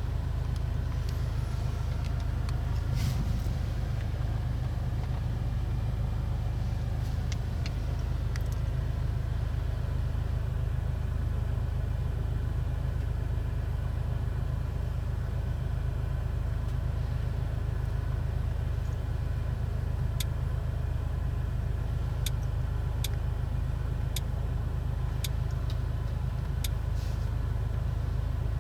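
A 2024 Audi S3 Sportback on the move, its 2.0-litre turbo four-cylinder and tyres making a steady low drone at an even speed, with a few scattered light clicks.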